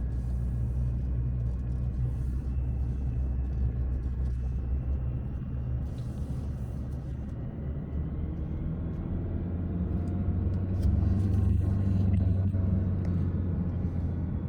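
Car engine and tyre noise heard from inside the cabin while driving downhill: a steady low rumble that swells louder about ten seconds in.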